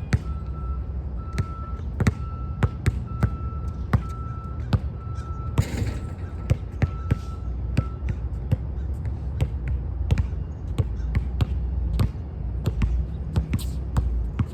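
Basketball bouncing repeatedly, a long series of sharp bounces. A faint high tone pulses on and off through the first half.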